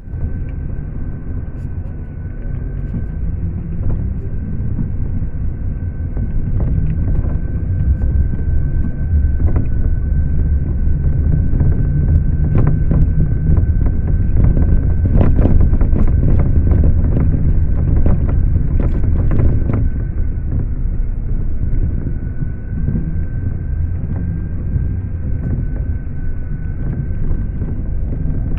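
Steady low engine rumble of a moving vehicle, swelling slightly midway, with a thin steady high whine throughout and a few scattered clicks.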